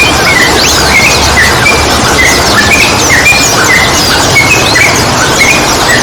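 Several sooty-headed bulbuls (trucukan) chattering in a dense flock, short bright notes and quick slurred calls tumbling over one another several times a second, over a steady rushing noise.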